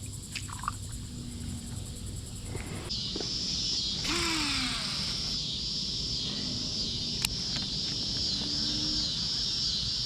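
Insect chorus: a high-pitched drone that swells loud about three seconds in and pulses evenly, about one and a half times a second. A single sharp click sounds once near the end.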